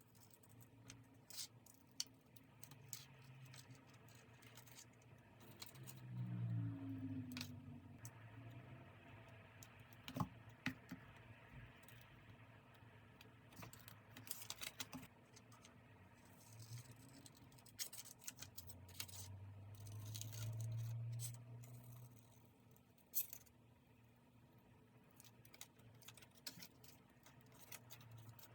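Quiet desk crafting sounds from journal decorating: scattered small clicks, taps and rattles of stationery being picked up and set down, with two longer low, muffled rubbing sounds, about six seconds in and around twenty seconds in.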